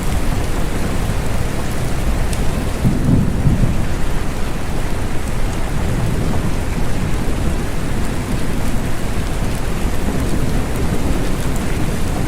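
Steady rain falling, with a low rumble of thunder underneath that swells about three seconds in.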